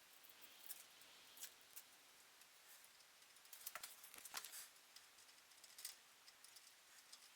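Near silence with faint, scattered small clicks and light handling sounds, with a brief cluster of them about halfway through.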